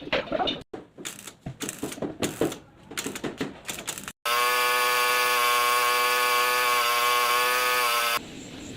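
Irregular clattering and knocking for about four seconds, then a power tool running at a steady whining pitch for about four seconds, starting and cutting off abruptly.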